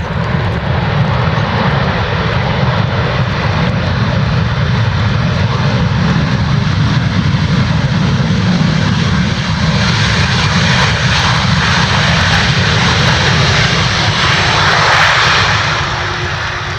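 Jet airliner's engines at takeoff power: a loud, steady roar that swells to its peak near the end and then starts to fade.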